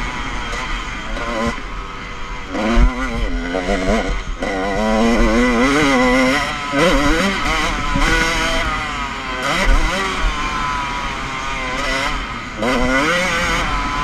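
Motocross bike engine revving up and down as the bike is ridden around the track, its pitch climbing sharply several times as the throttle is opened.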